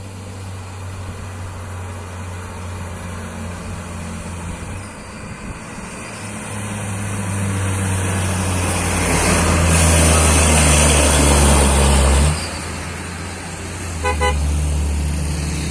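Mitsubishi Fuso truck's diesel engine labouring up a steep grade, growing louder to a peak and then dropping off abruptly about twelve seconds in, typical of a truck losing power on the climb. About two seconds later comes a quick string of short horn toots.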